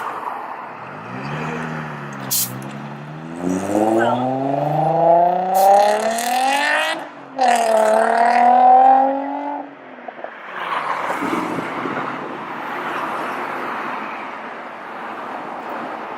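A car engine revving up: its note climbs steadily for several seconds, dips briefly about seven seconds in, then holds high and cuts off near ten seconds in, leaving a steady rushing noise.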